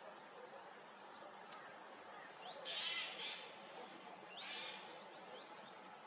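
Bird calls: a sharp high note about one and a half seconds in, then two short harsh calls around the middle, over a steady background hiss.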